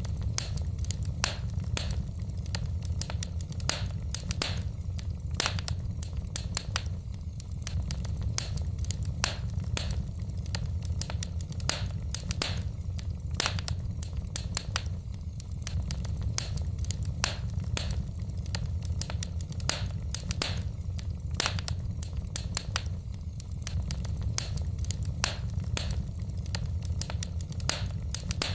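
Wood fire in a fireplace crackling, with irregular sharp pops and snaps of burning logs, several a second, over a steady low rumble.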